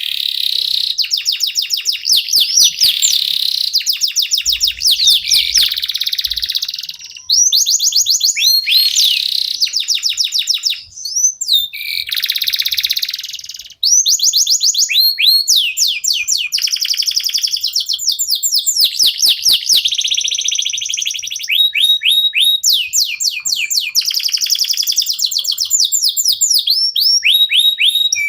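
Domestic canary singing a long, loud song made of fast trills: runs of rapidly repeated sweeping notes and buzzy rolls, with brief pauses between phrases.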